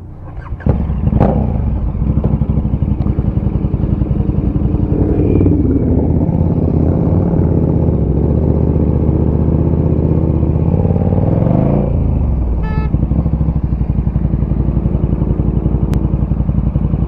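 Motorcycle engine starting and running at a low, pulsing idle, its pitch rising and falling once as the bike is moved. A short, high beep sounds briefly over it about two-thirds of the way in.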